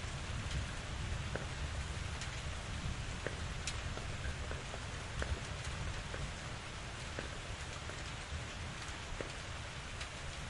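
Steady rain falling, with many individual drops ticking sharply close by over a low rumble.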